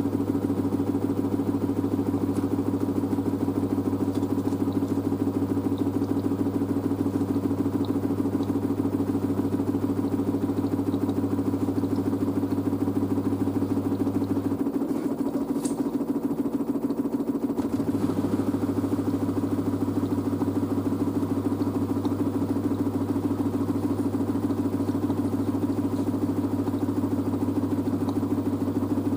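LG DirectDrive washer dryer's drum spinning a load of towels, a steady mechanical hum, with the load unbalanced in the drum. The deepest part of the hum drops out for about three seconds midway, then returns.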